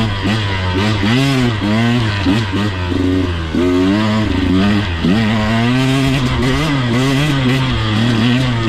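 Two-stroke KTM 125XC dirt bike engine being ridden, revving up and down in quick swells for the first few seconds, then held at a steadier pitch with small wobbles.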